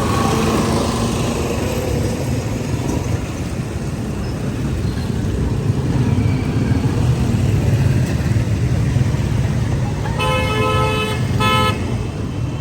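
Steady roadside traffic rumble, with a vehicle horn honking twice near the end.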